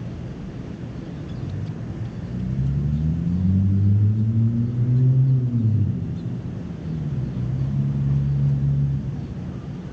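A motor vehicle engine drones past below, its pitch rising and then falling over a few seconds. A second, steadier engine drone follows near the end, over a constant background rumble.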